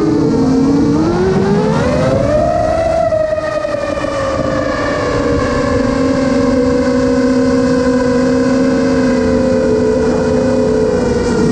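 FPV drone motors and propellers whining; the pitch dips about half a second in, climbs over the next two seconds as the motors speed up, then holds nearly steady.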